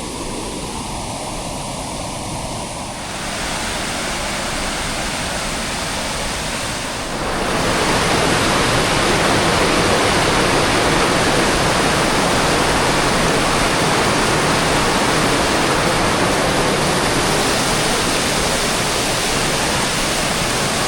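Waterfall rushing steadily, a dense roar of falling water that grows louder in two steps, about three and seven seconds in, then holds.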